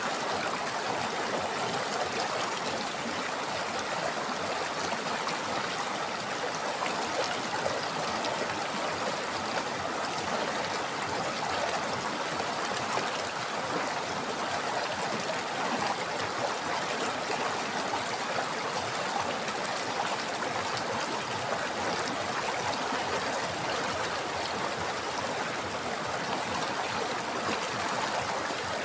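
River water flowing over stones: a steady, unbroken rush with a trickling, gurgling texture.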